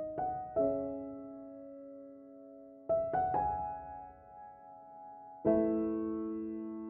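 Background music: slow, gentle piano, a few notes and chords struck and left to ring out.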